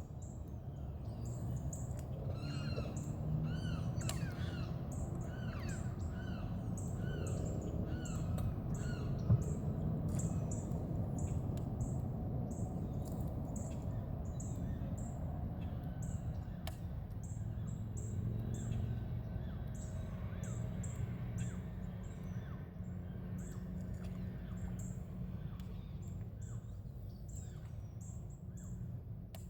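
Birds calling: a run of repeated harsh, caw-like calls, about two a second, over the first ten seconds or so, with a fast, high chirping repeating throughout and a steady low rumble beneath.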